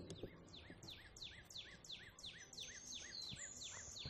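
A bird singing faintly: a rapid run of short, evenly spaced falling chirps, about three a second, with a short held high note near the end.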